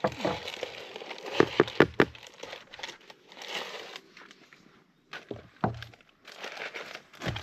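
Aluminium foil crinkling and rustling as it is handled and folded, with a quick run of sharp knocks about a second and a half in.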